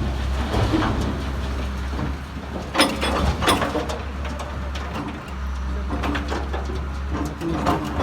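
Heavy machine's engine running steadily with a low hum, with a couple of sharp knocks about three seconds in.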